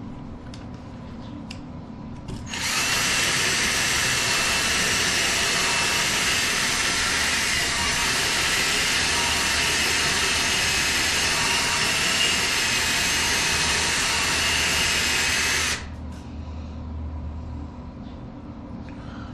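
Forney FC125 flux-core wire welder running a bead: the arc starts about two and a half seconds in, holds steady for about thirteen seconds and cuts off sharply. A low hum runs underneath throughout.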